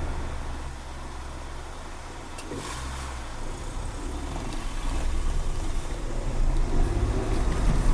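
Car driving through city streets: engine and road noise. It eases off about a second in, then grows steadily louder as the car picks up speed again.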